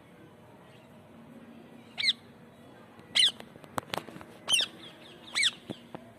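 Pet parrot giving four short calls about a second apart, with two sharp clicks between the second and third calls.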